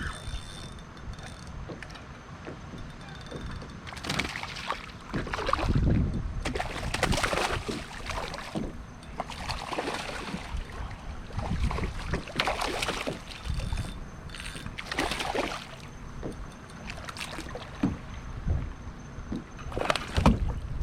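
Water splashing in irregular bursts beside a kayak, every two to three seconds from about four seconds in: a hooked snook thrashing at the surface as it is fought to the boat.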